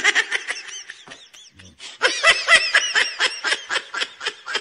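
Laughter sound effect: a fast, high-pitched run of ha-ha pulses, about eight a second, swelling to a louder second burst about two seconds in.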